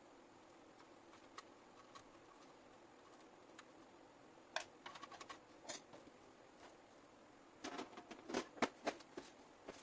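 Scattered light clicks and taps of hands handling PC build parts and cables: a few around the middle and a quick run of them near the end, over faint room tone.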